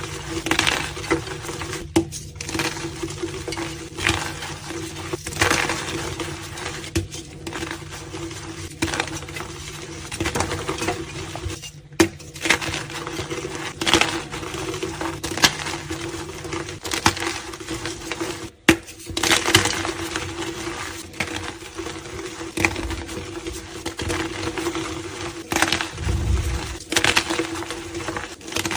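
Blocks of pink and white gym chalk being crushed, a dense run of dry crumbly crunches and crackles that breaks off abruptly a few times, over a steady low hum.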